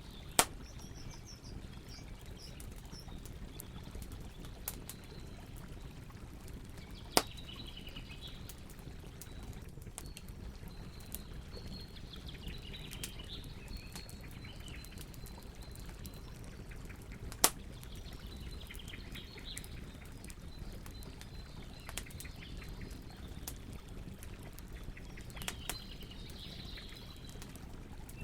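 Campfire burning with a steady low rustle, broken by a few sharp pops, three of them loud: about half a second in, about seven seconds in and near the middle. Birds chirp faintly in the background now and then.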